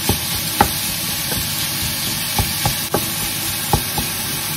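Ground pork and chopped onion sizzling in a frying pan in olive oil while a wooden spoon breaks up and stirs the meat, with scattered light knocks of the spoon against the pan.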